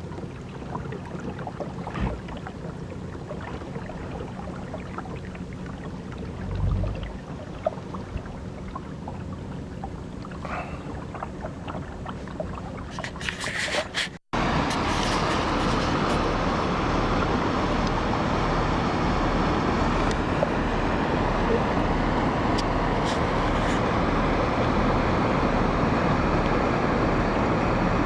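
Water and wind rushing past a moving kayak. About halfway there is an abrupt cut to a louder, steady rush.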